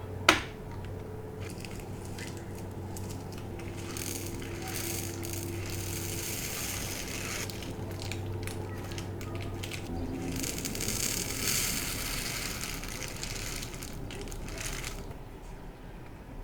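Crackling and rustling of bead packaging being handled and opened, in two long stretches, with a sharp click just after the start.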